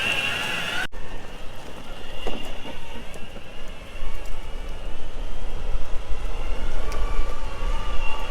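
Electric skateboard riding on a city street: wheels rolling over pavement with a faint steady high motor whine, and a heavy wind rumble on the microphone. The sound cuts abruptly about a second in, as at an edit.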